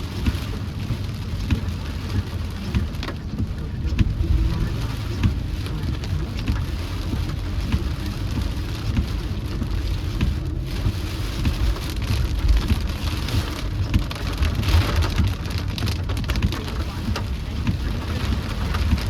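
Rain falling on a moving car, many fine drop hits over a steady low road rumble.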